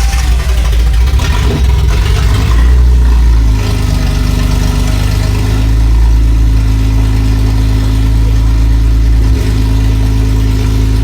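V12 engine in a BMW E30 catching on its first start and revving unevenly, then settling about three and a half seconds in into a steady, fast run with a deep exhaust tone. It sounds healthy, with good compression.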